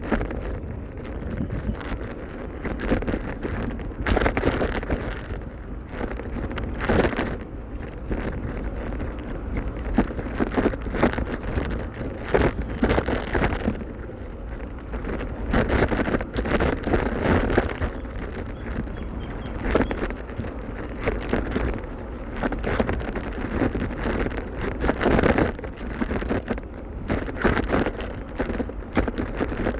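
Wind buffeting the microphone of a camera riding along on a moving bicycle: a steady low rumble that swells in gusts several times.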